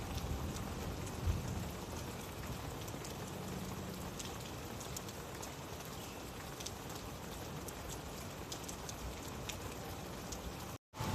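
Steady rain falling, an even hiss with scattered individual drop ticks. It cuts out completely for a split second near the end.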